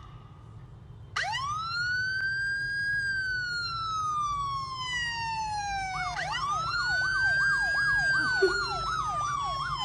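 Emergency-vehicle siren: a wail that rises sharply about a second in and falls slowly, then rises again near the middle while a faster yelp sweeps rapidly up and down over it.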